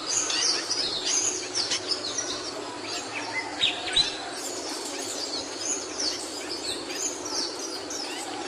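Capuchino songbird singing a rapid, continuous string of quick, high, down-slurred notes over a steady background hiss.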